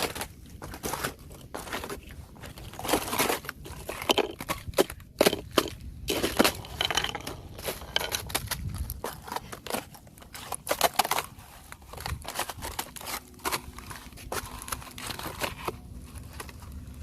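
Thin fresh ice cracking and crunching as it is broken and crushed, in quick irregular crackles with louder clusters of crunches.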